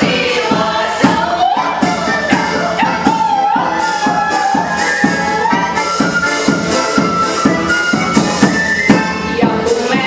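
Choir singing a song with instrumental accompaniment and a steady beat.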